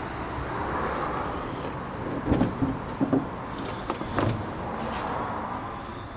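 A handful of short clunks and knocks, bunched together in the middle, over a steady hiss that swells and fades like passing traffic.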